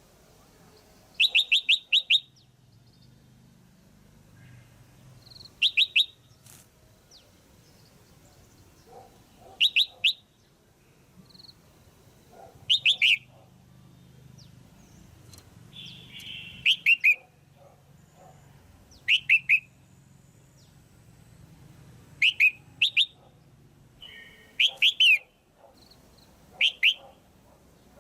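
Female red-whiskered bulbul calling in short bursts of three to five quick chirps, repeated every three to four seconds. This is the kind of female call that bird keepers play to stimulate a male.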